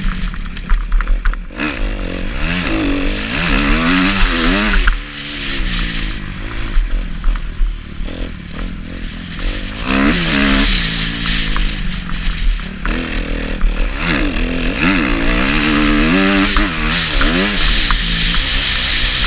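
Kawasaki KX250F motocross bike's four-stroke single-cylinder engine revving hard, its pitch climbing and dropping over and over through gear changes and throttle blips, with a steady rushing hiss behind it.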